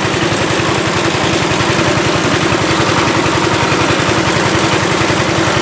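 Power tiller engine running steadily with a fast, even pulse, driving a mini rice mill.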